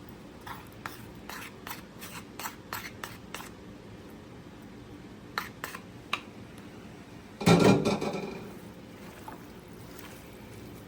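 Light kitchen knocks of a utensil against cookware or a board, about three a second for a few seconds, then a few more. About seven and a half seconds in comes one loud, briefly ringing clatter of cookware.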